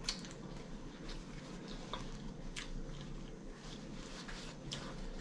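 Faint chewing and mouth sounds with scattered short wet clicks, while a paper towel is handled.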